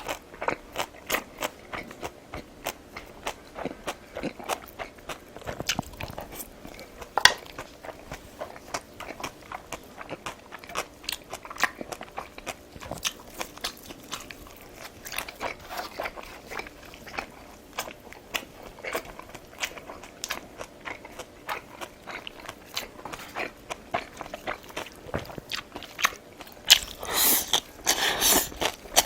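Close-up eating sounds: chewing with a steady run of short, sharp mouth clicks, louder and more crowded together near the end.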